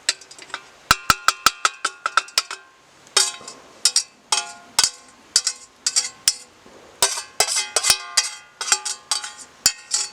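A metal spoon clanking and scraping against a metal cooking pot, dozens of sharp ringing strikes at an irregular pace of several a second, as meat sauce is scooped and stirred into pasta.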